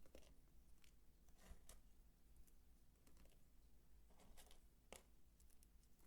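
Faint, irregular clicks and short scrapes from a bar of soap being worked by hand, about ten in all with no steady rhythm.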